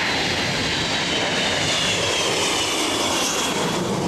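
Jet airliner's engines running loud as it passes, a steady roar with a high whine that slowly falls in pitch.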